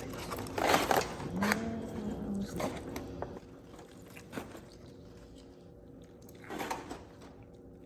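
Smoked pork butt being pulled apart by hand: a few short, wet squishing and tearing sounds, most of them in the first three seconds and one more near the end.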